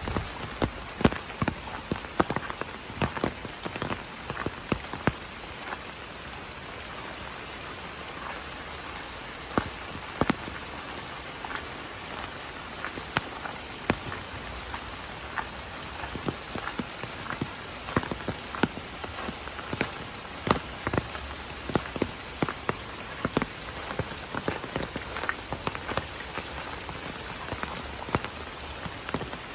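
Steady rain falling, with frequent sharp drops striking a hard surface close by, scattered unevenly over a constant hiss of rain.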